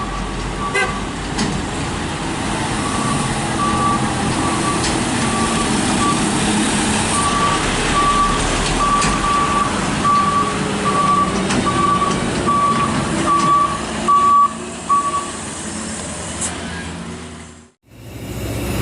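Truck's reversing alarm beeping at one steady pitch, more than once a second, over the truck's engine running. The beeping stops about fifteen seconds in.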